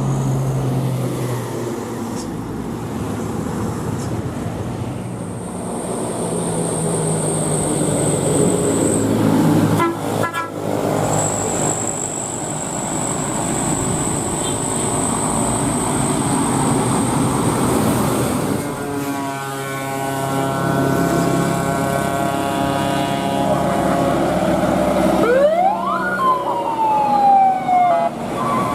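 Heavy trucks' diesel engines labouring up a steep climb, with a thin high whistle in the middle. In the last few seconds the engine pitch climbs, and a whine sweeps up and then falls away near the end.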